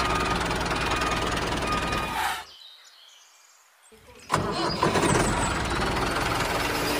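Engine running steadily, then dying away a little over two seconds in. It starts up again abruptly about four seconds in and keeps running.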